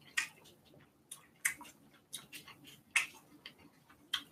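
Eating sounds: irregular short wet clicks and smacks, about two a second.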